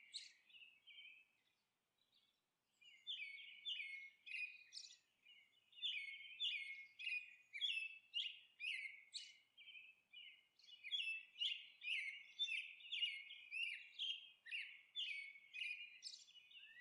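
Birds chirping: short, high chirps coming about two a second in runs, with a pause of a couple of seconds about a second in.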